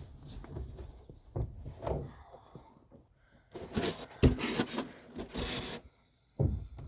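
Handling noises of gear being moved about: irregular rubbing and scraping, a longer scraping stretch in the middle and a short knock near the end.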